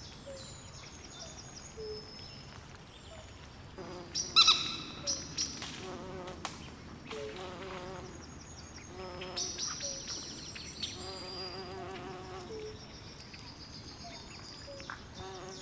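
Swamp ambience made of many overlapping wild animal calls. High chirps and trills run throughout with short low notes repeating, and a loud, harsh call comes about four seconds in.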